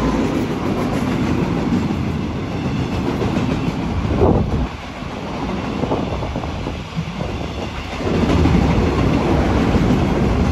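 Freight train of container flatcars rolling past close by, its wheels clacking over the rail joints. The sound eases for a few seconds in the middle and swells again near the end.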